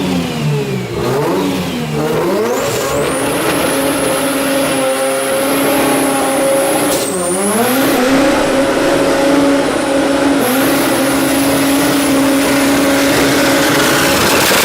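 Rotary engine revving: its pitch dips and climbs for the first couple of seconds, then holds steady at high revs, with a brief drop and recovery about seven seconds in.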